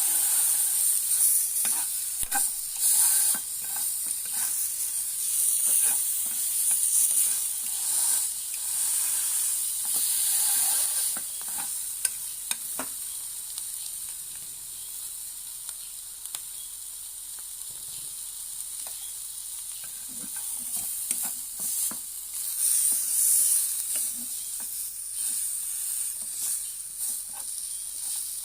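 Ribs sizzling over the heat as they are grilled, with scattered sharp clicks and scrapes from a utensil turning them. The sizzle is louder at first, eases off in the middle and picks up again near the end.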